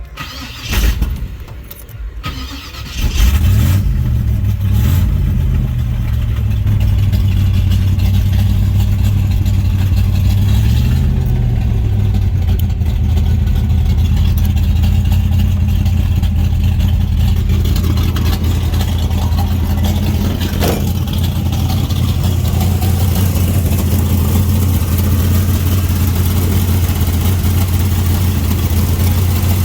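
Third-generation Chevrolet Camaro's engine cranking and catching about three seconds in, rising and falling in revs twice, then settling into a steady idle.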